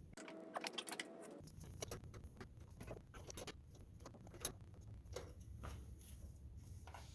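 Faint, scattered small clicks and taps of hands and tools working the wires off an engine's starter solenoid.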